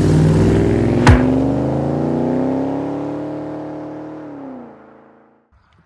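A car engine revving, its pitch climbing slowly, then dropping away as it fades out near the end. A single sharp crack comes about a second in.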